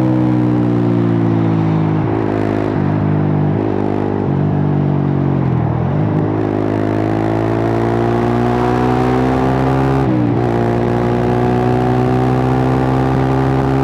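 Suzuki GSX-R150's single-cylinder engine running through a cut-open exhaust while being ridden. The pitch sags with a few short dips for the first several seconds, then climbs steadily under acceleration. It drops sharply at a gear change about ten seconds in and climbs again.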